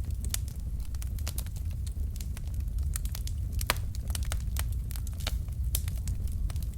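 Wood fire in a fireplace crackling: irregular sharp snaps and pops from the burning logs over a low steady rumble, with one louder pop a little past halfway.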